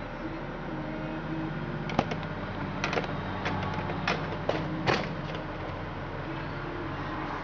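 A steady low hum with a handful of sharp clicks and knocks in the middle, like something being handled.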